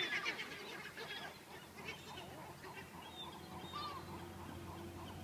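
Seagulls calling: a louder call trails off at the start, then scattered short calls follow over a soft background hiss.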